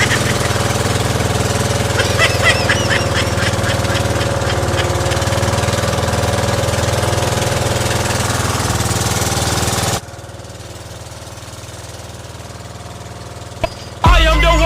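A small boat engine running steadily with a rattling beat. About ten seconds in it cuts off abruptly to a much quieter hum, and music comes in near the end.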